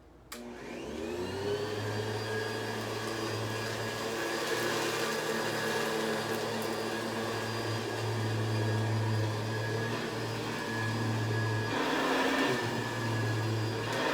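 Hoover Convertible upright vacuum switched on, its motor spinning up over a second or two and then running steadily over carpet. A louder rush of noise about twelve seconds in.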